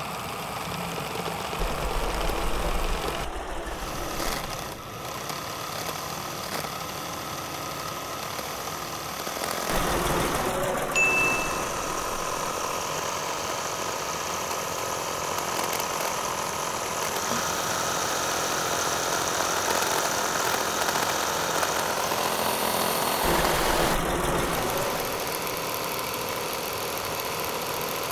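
Small electric motor of a homemade model tractor running steadily, turning a belt-driven line shaft and a miniature flour mill. The sound gets a little louder about ten seconds in.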